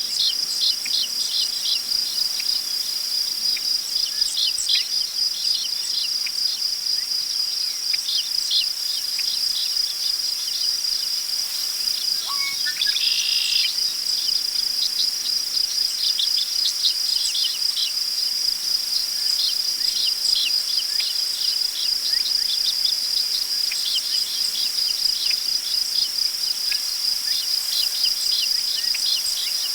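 Steady high chirring of crickets, with frequent short bird chirps and calls over it and one fuller bird call about thirteen seconds in.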